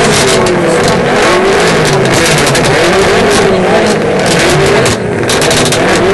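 Performance car engine revved again and again, its pitch rising and falling several times in a row, with a dip in level about five seconds in.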